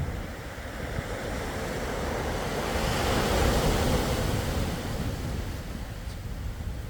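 Sea waves breaking on the shore: a wave's wash swells up, is loudest about halfway through, then draws back.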